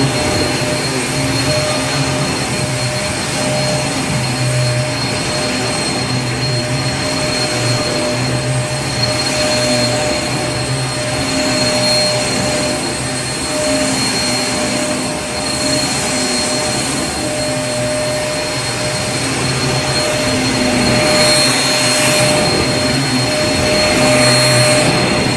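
Vacuum cleaner running continuously. Its motor makes a steady hum with a high whine over a rush of air, growing slightly louder near the end.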